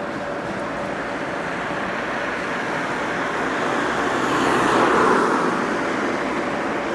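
A road vehicle passing by, its noise swelling to a peak about five seconds in and then fading.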